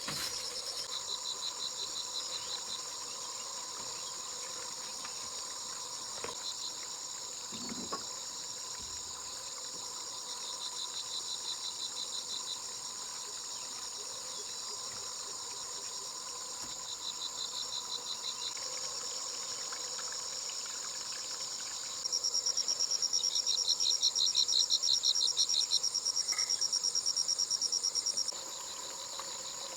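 Insects chirping in a steady high chorus, with short bouts of rapid pulsed trills every few seconds. A louder, faster trill sets in about two-thirds of the way through and stops abruptly near the end.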